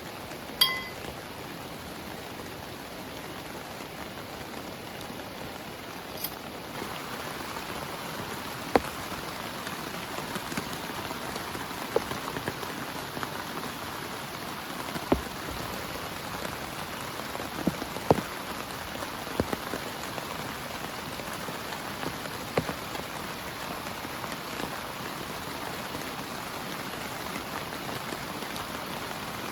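Steady heavy rain falling on a tent, with single louder drops ticking now and then. There is a sharp click about half a second in, and the rain grows a little heavier after about seven seconds.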